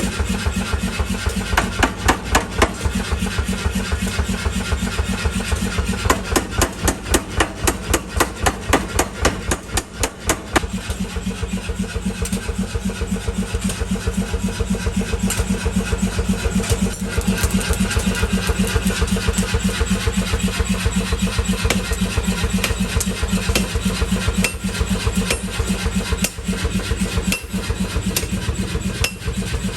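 Mechanical power hammer running and pounding hot steel in rapid, evenly spaced blows over the drone of its motor. The blows are heaviest for about the first ten seconds, then go on lighter and steadier.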